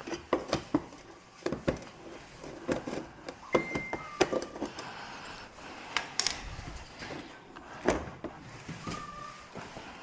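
Irregular clicks and knocks of hands and tools working on the back of a flat-screen TV, with a couple of short high squeaks.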